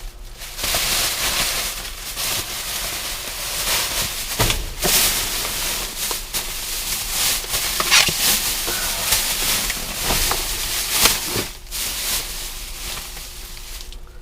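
Plastic trash bags and packaging rustling and crinkling as a dumpster's contents are rummaged through by hand, with many short crackles; it dies down near the end.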